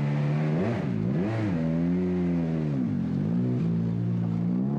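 Rally car engine revving up and down, its pitch falling and climbing several times.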